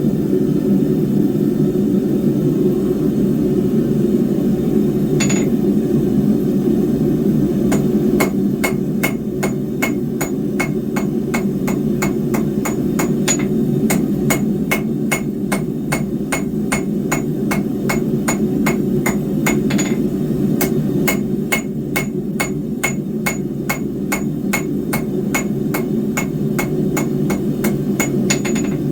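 Blacksmith's hammer striking square steel bar on an anvil, in a steady run of ringing blows about three a second from about eight seconds in, after one lone strike earlier. A steady low roar sits underneath throughout.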